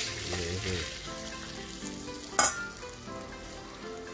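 Fish pieces sizzling as they are stir-fried in a stainless steel wok, stirred with a metal spoon. A sharp metal clack about two and a half seconds in.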